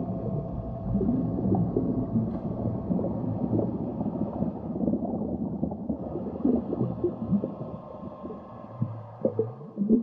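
Underwater sound heard through a GoPro's waterproof housing: a low, muffled rumble of moving water with many irregular small clicks and knocks, getting a little quieter near the end.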